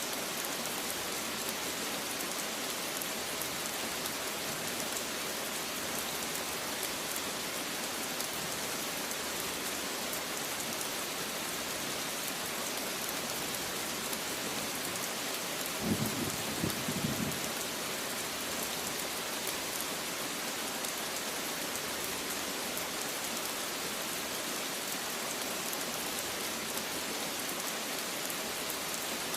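Steady, even rain falling on a surface, with a brief low rumble about halfway through.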